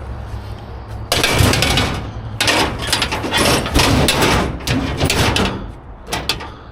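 Scrap metal clanking and scraping as pieces are pulled and shifted in a steel dumpster, in a run of loud clatters starting about a second in, with a few sharper clinks near the end. A low steady hum sits underneath at first.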